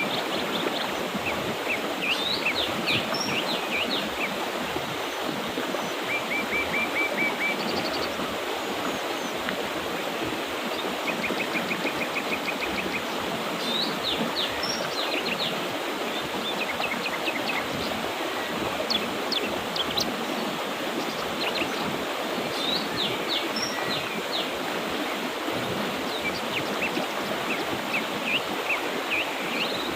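Mountain river water flowing steadily, with songbirds chirping throughout; twice a bird gives a quick run of repeated short notes.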